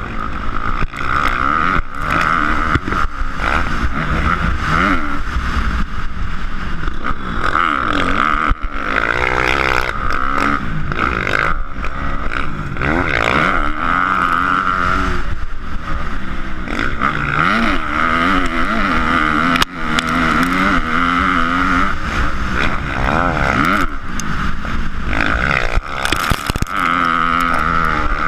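Motocross dirt bike engine revving, its pitch climbing and dropping again and again as the throttle is worked.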